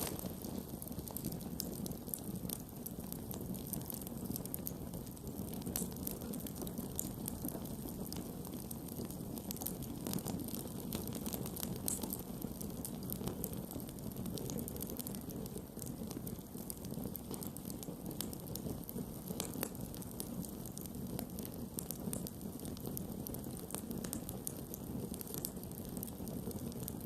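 Campfire burning with steady low rushing and frequent small, irregular crackles and pops of burning wood.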